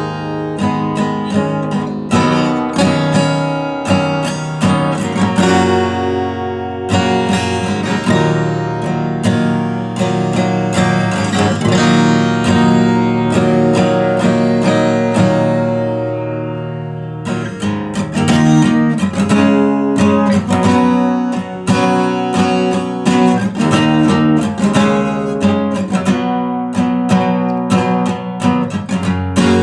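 Guitar being strummed and picked, a run of chords and single notes with a brief dip in loudness about 17 seconds in.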